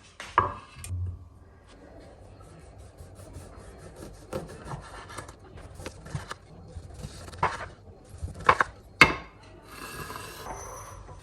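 Scraping and rubbing against a hard surface, broken by a few sharp knocks, the loudest three near the end.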